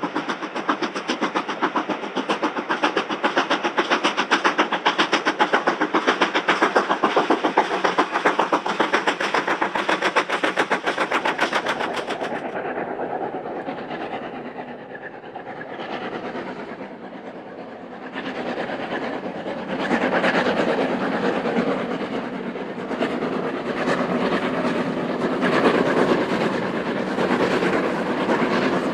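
Steam locomotive running at speed with rapid, even beats, which drop away about twelve seconds in. Louder, rougher train noise builds again from about twenty seconds in.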